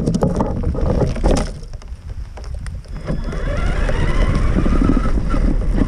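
Traxxas Summit RC truck driving, heard from on board. It starts with a sudden jolt and a clatter of knocks over the first second and a half. From about three seconds in, the electric motor and gears whine, rising in pitch as the truck speeds up, over a steady low rumble of the chassis and tyres.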